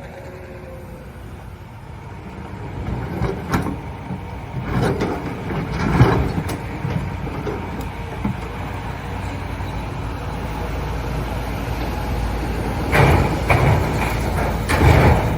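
Excavator's diesel engine running, growing louder, with bursts of clattering and scraping from broken concrete being scooped and dropped, once about three to six seconds in and again near the end.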